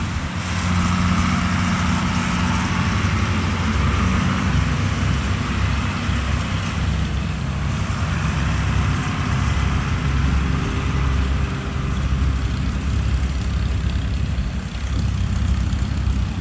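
Farm tractor engines running steadily as tractors drive past, a low engine hum with some louder stretches.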